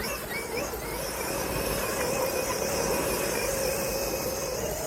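Large-scale RC car running through grass, its motor and drivetrain giving a steady whine.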